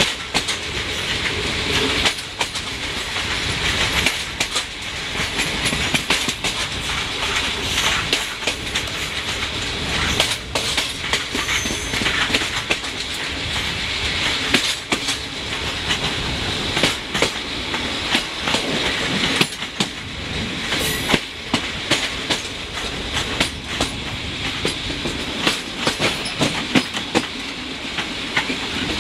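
Passenger train coaches rolling at speed, heard from an open carriage window: a steady rushing roll of wheels on rail, broken by many irregular clicks and knocks as the wheels pass over rail joints.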